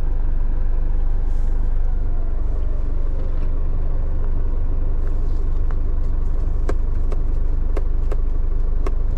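Tow truck's engine running steadily, a deep even rumble heard from inside the cab, with a few light clicks scattered through the second half.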